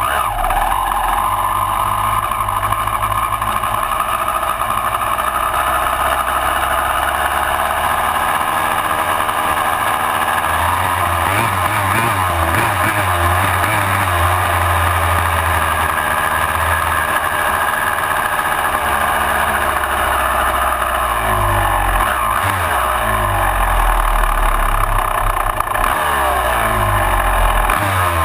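Honda CR250 two-stroke dirt bike engine running under way, its pitch rising and falling as it is revved through the gears, heard close up from a handlebar-mounted camera.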